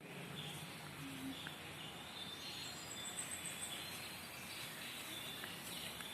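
Steady background hiss with faint, high bird chirps, including a short rapid high trill about three seconds in.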